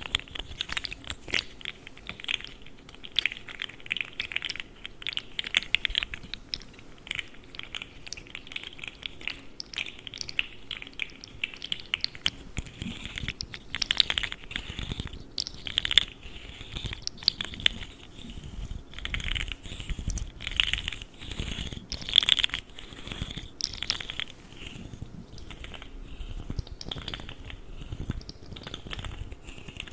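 Articulated plastic fidget slug toy being handled: a rapid, irregular run of small clicks, rattles and scratches from its segments, with a few sharper clicks standing out.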